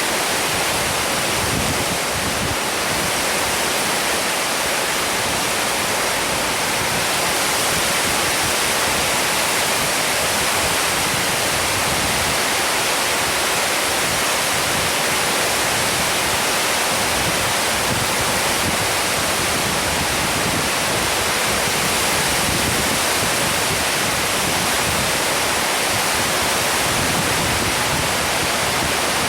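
Heavy rain pouring steadily in a storm: an even, unbroken hiss of falling water.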